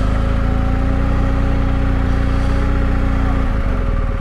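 Motorcycle engine running steadily, its note changing about three and a half seconds in.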